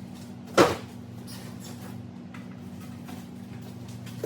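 Two sharp thumps about three and a half seconds apart, the first the louder, from handling the air fryer's cardboard packaging during unboxing, over a steady low hum.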